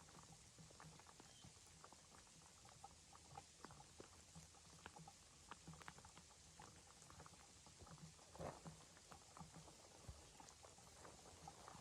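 Faint, irregular small crackles and taps, loosely spaced, over a low steady background hum.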